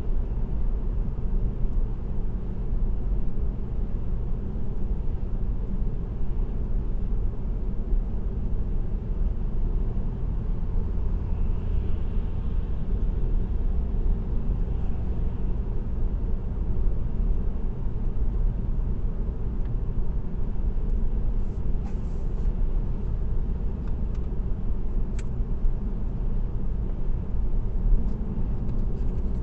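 Steady low rumble of a car cruising at expressway speed: tyre and engine noise picked up by a dashcam inside the car. A few faint ticks come in the second half.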